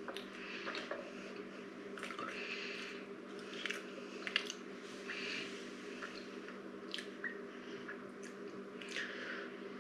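People chewing soft chocolate-filled pancakes (dorayaki) close to the microphone: scattered wet mouth smacks and small clicks. A steady low hum runs underneath.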